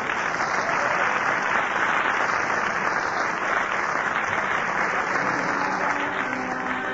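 Studio audience applauding, an even clatter that holds steady; an orchestra begins to play underneath near the end.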